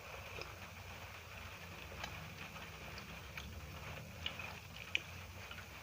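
Person eating, with wet chewing sounds and a few sharp clicks, the loudest near the end, over a steady low hum.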